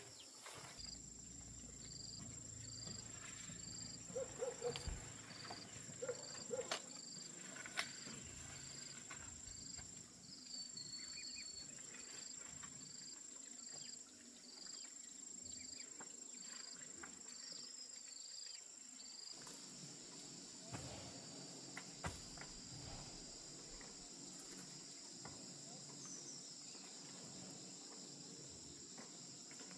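Insects trilling faintly: a steady high-pitched drone with a regular chirp about one and a half times a second that stops about two-thirds of the way through. A few brief knocks come in the first third.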